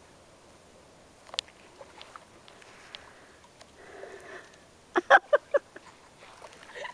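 A duck quacking: four quick, loud quacks in a row about five seconds in, after a stretch of faint background with a single click.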